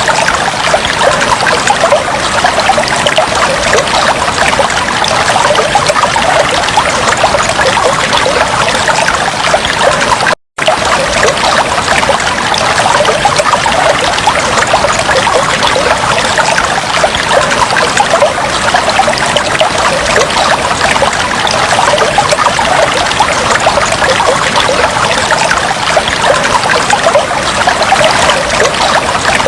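Fish tank water trickling and bubbling steadily, a dense, even splashing with no let-up. It cuts out completely for a split second about ten seconds in, then carries on unchanged.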